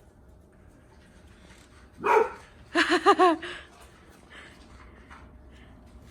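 A dog barking: one bark about two seconds in, then a quick run of short barks a moment later.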